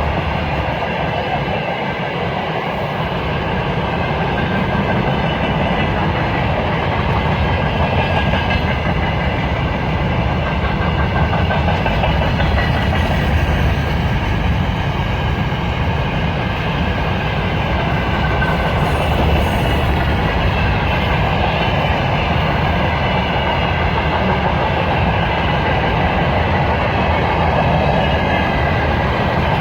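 Russian freight train rolling past on the Trans-Siberian main line: a loud, steady noise of steel wheels running over the rails that holds without a break.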